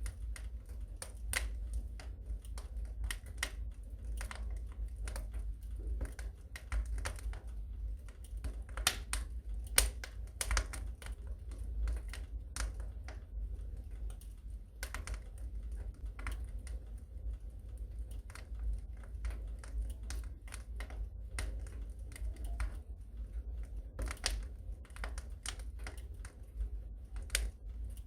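Wood fire burning in a fireplace, crackling with irregular snaps and pops over a steady low rumble, the loudest pop about ten seconds in.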